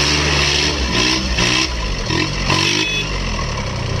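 Tractor diesel engine running hard under load, its pitch rising and falling, with a hiss that comes and goes during the first three seconds.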